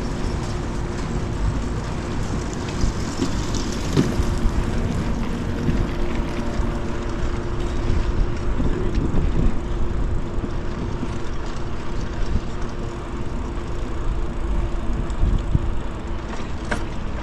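Wind rushing over the microphone and road noise from a bicycle being ridden, a steady low rumble with a faint steady hum underneath.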